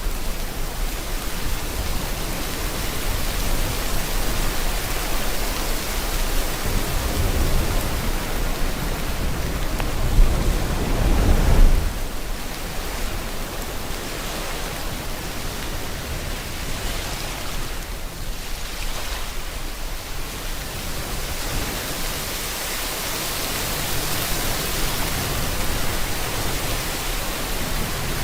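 Steady rain hiss mixed with ocean waves. A wave swells up and crashes about eleven seconds in, then falls away abruptly, and a gentler swell rises again near the end.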